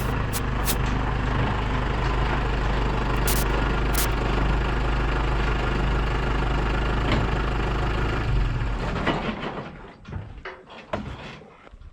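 An engine idles steadily with a few sharp clicks over it, then is shut off about eight and a half seconds in. A few faint irregular knocks and clicks follow.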